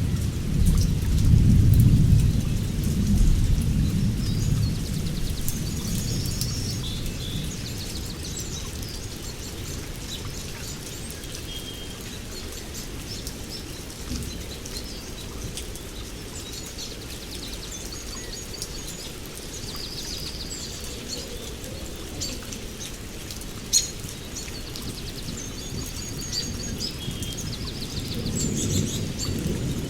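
Steady rain with thunder rumbling low in the first few seconds and again near the end, while small birds chirp and trill over it.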